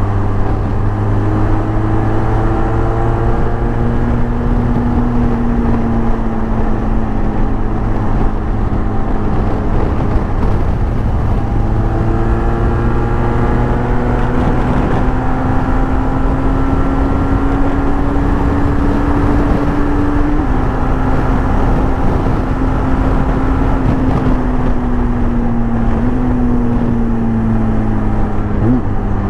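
Motorcycle engine running under way, its note drifting slowly up and down and changing abruptly twice in the second half, over steady wind and road rush.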